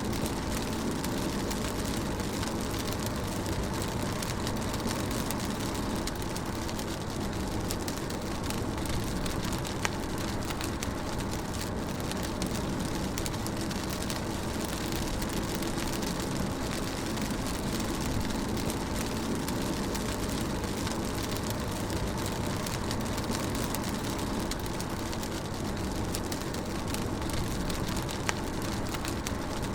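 Rain falling on a moving car, heard from inside the cabin: a steady wash of rain over a low, even road and engine rumble, with a couple of sharp ticks.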